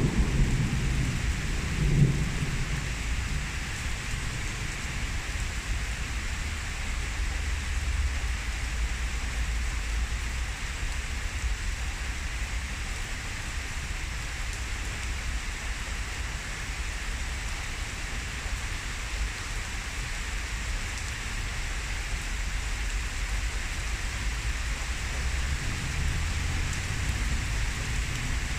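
Heavy pouring rain hissing steadily. A thunder rumble, with a crack about two seconds in, dies away over the first few seconds, and a low rumble swells again near the end.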